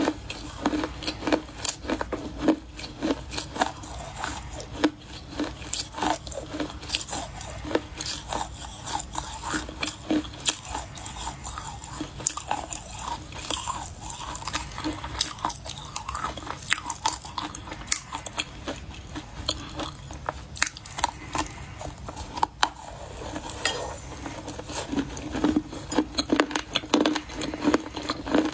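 Biting and chewing of dry Chinese edible clay: a steady run of crisp crunches and cracks, busiest near the start and again near the end.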